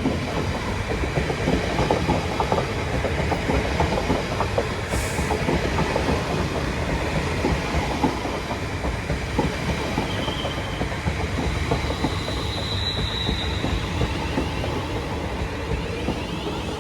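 A train passing on the line, its wheels rumbling and clattering over the rails with a dense run of clicks. Two brief high-pitched squeals about ten seconds in and again a little later; the noise eases near the end.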